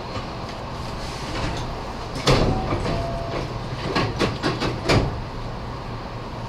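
Nose Electric Railway 7200 series electric train running, heard from on board: a steady rumble, a loud sharp knock a little over two seconds in, then a quick run of four or five clacks a second later as the wheels pass over rail joints or points.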